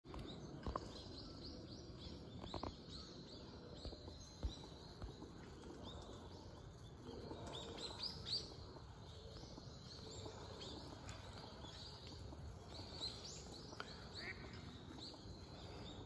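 Small birds chirping in short, high, repeated notes over a steady background of outdoor noise, with a few soft knocks in the first few seconds.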